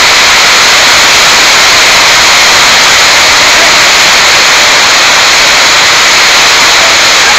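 Very heavy tropical downpour heard from inside a room: a loud, steady rushing hiss of rain that does not let up.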